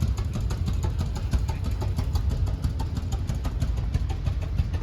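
An engine running steadily at idle, with a fast, even firing beat.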